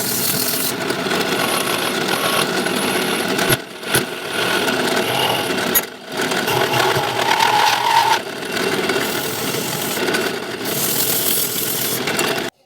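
Electric drill driving a homemade wood lathe, its motor running steadily while a tool scrapes the spinning wood. The noise dips briefly twice and cuts off abruptly near the end.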